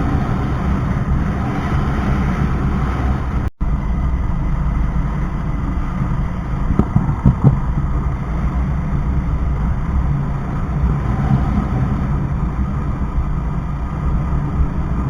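Motorcycle running along the road, with steady wind rumble on the microphone; the sound drops out for an instant about three and a half seconds in.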